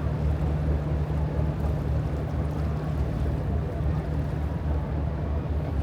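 Steady low engine drone of a river cruise boat, with an even rush of water and wind beneath it.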